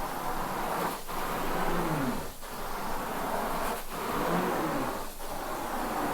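Carpet-cleaning rinse-and-extraction wand pulled across a wet rug in repeated strokes: the suction rushes steadily, dips briefly about every second and a half as each stroke ends, and a low hum bends up and down with each pass.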